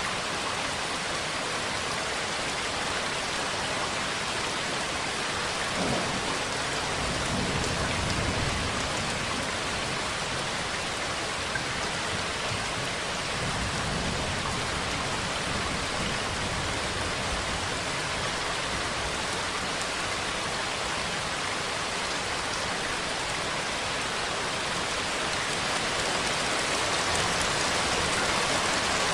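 Steady rain falling as an even hiss, with low rumbles of thunder about six seconds in and again around fourteen seconds.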